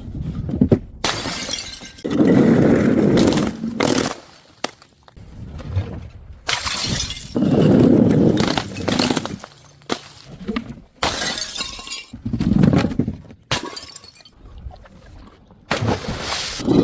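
Glass bottles breaking and shattering, one after another: four long crunching crashes a few seconds apart, each lasting a second or more, with a short sharp impact just before the first.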